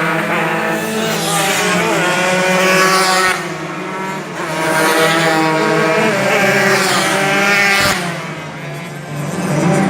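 Tuned two-stroke Yamaha RX-King road-race motorcycle engines (bored to 140cc) at full throttle, their pitch climbing and falling over and over, with two short drops in loudness about three and eight seconds in.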